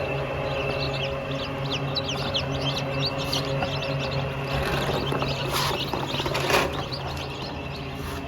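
Birds chirping in many quick, high notes, densest in the first half, over a steady low hum. Two short rustling bursts come a little past the middle.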